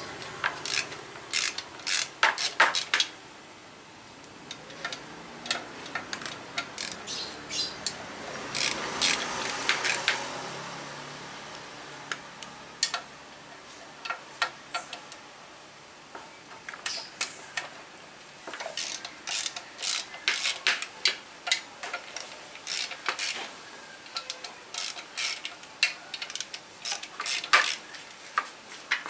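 Ratchet wrench clicking in quick bursts, with metal tool clinks, as bolts are worked during an engine teardown.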